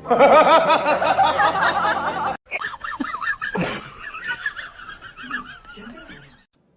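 People laughing, several voices at once, cutting off abruptly about two and a half seconds in; softer laughter follows, with a short noise partway through, and it fades out near the end.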